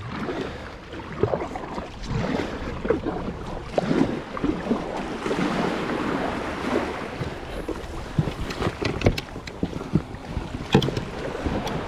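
Sea water splashing and sloshing around a kayak, with irregular knocks against the hull and wind on the microphone.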